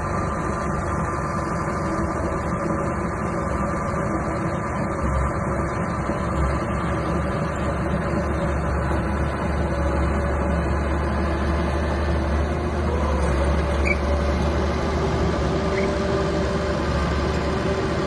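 Small bulldozer's diesel engine running steadily with a deep rumble, its note shifting slightly about two-thirds of the way through.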